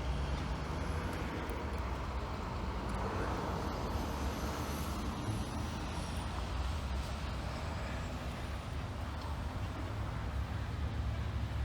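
Heavy construction machinery's diesel engine running with a steady low rumble, with a faint high whine rising and falling partway through.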